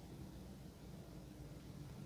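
Faint, steady low rumble of an electric train running, heard from inside the carriage.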